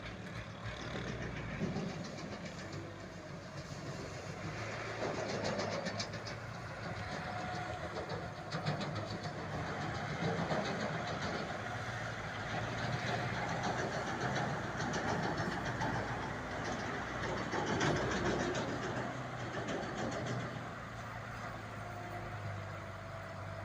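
Truck engine running with a steady low hum, growing louder through the middle and easing off near the end.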